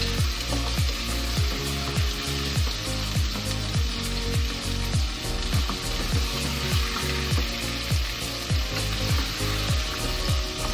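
Raw chicken pieces sizzling as they fry in a pan and are stirred with a wooden spatula, a steady hiss throughout. Background music with a steady beat plays underneath.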